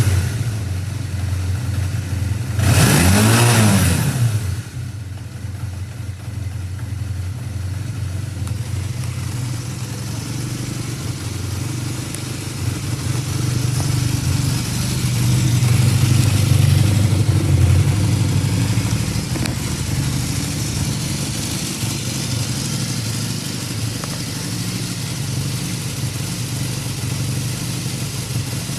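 Kawasaki Z440LTD's air-cooled parallel-twin engine. It is revved once about three seconds in, then settles back to a steady idle, rising a little in the middle.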